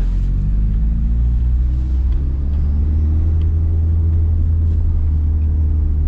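Car engine running with a steady, loud low rumble as the car drives.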